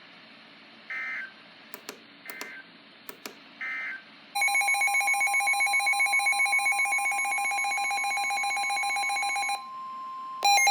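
Emergency Alert System signal on NOAA Weather Radio, heralding a severe thunderstorm warning. Three short digital data bursts come first, then a loud steady two-tone attention signal for about five seconds, then a brief burst of rapid warbling near the end.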